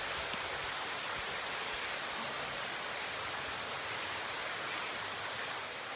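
Steady rush of running water from an underground stream in a limestone cave.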